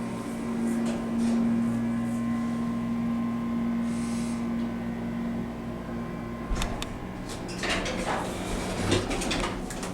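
Elevator car running with a steady hum, then a knock about six and a half seconds in and a clattering rattle near the end.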